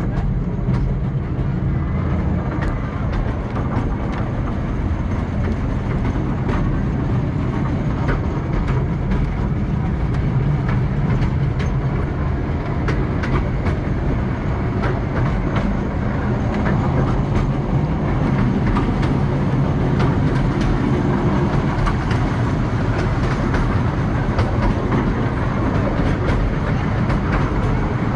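Narrow-gauge park railway train running along the track, heard from an open passenger car: a steady rumble of wheels on rails with frequent light clicks.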